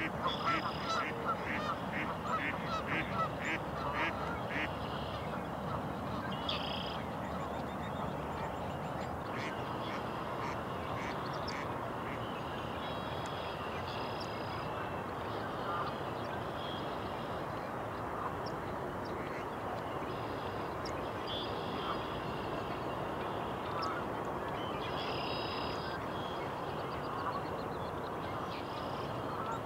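Birds calling over a steady rushing background: a quick run of repeated short calls in the first few seconds, then scattered, longer high calls now and then.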